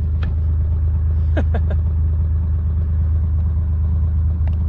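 Vehicle engine running with a steady low drone while driving, with a few faint short sounds about a second and a half in.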